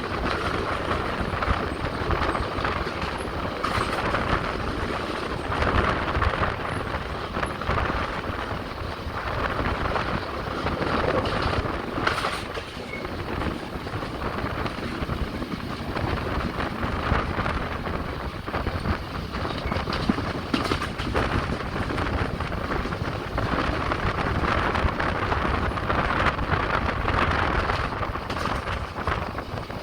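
Passenger train running along the track, heard from on board: a steady rumble of wheels on rails with an occasional knock.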